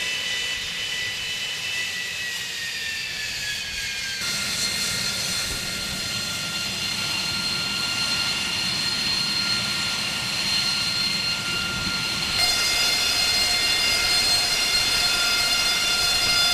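AV-8B Harrier II's Rolls-Royce Pegasus turbofan running, a steady high whine over a rushing rumble, with the whine sliding slightly lower over the first few seconds. The sound changes abruptly about four seconds in and again about twelve seconds in.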